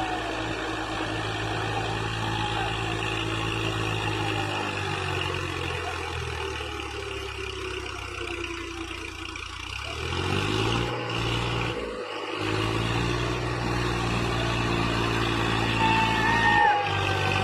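Massey Ferguson tractor's diesel engine running under steady throttle; its note sinks about five seconds in, then climbs again around ten seconds as it picks up revs, with two brief breaks near twelve and seventeen seconds.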